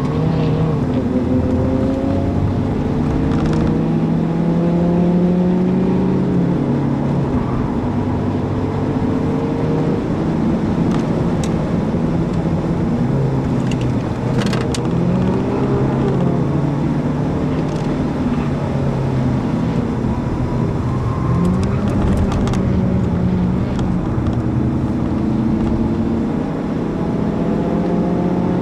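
Audi A4's 170 hp 2.0 TDI four-cylinder diesel heard from inside the cabin under hard track driving. The engine pulls up through the revs and drops back at each gear change or lift, several times over, with road and tyre noise underneath and a few sharp clicks.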